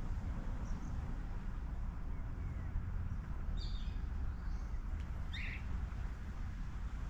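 Outdoor morning ambience: a few short bird calls, two of them clear near the middle, over a steady low rumble of background noise.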